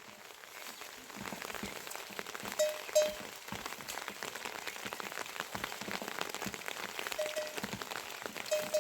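Rain falling, a dense steady patter of drops. A few short pitched notes sound over it, in a pair about a third of the way in and again near the end.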